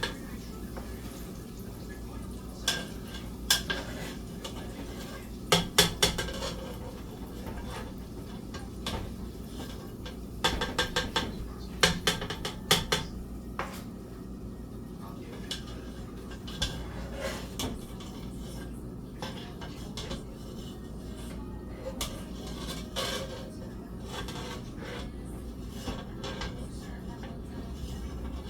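Metal utensils clinking and clattering against pots, pans and dishes in scattered bursts, over a steady low hum.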